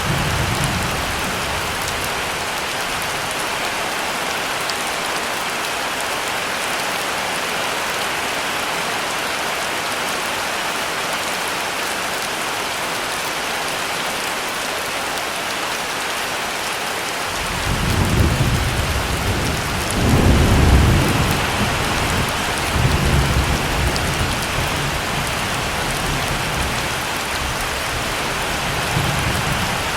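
Heavy rain pouring steadily. A bit over halfway through, thunder rumbles in low and rolls on for about ten seconds, swelling loudest soon after it starts.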